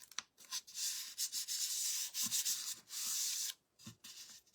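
Dry rubbing strokes against a craft surface, a scratchy hiss lasting a couple of seconds with a short break in the middle.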